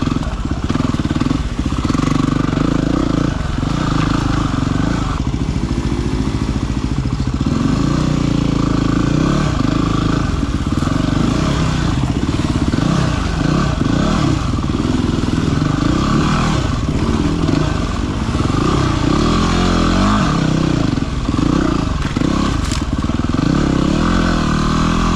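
Yamaha WR250R's single-cylinder four-stroke engine running while ridden off-road, its revs rising and falling with the throttle.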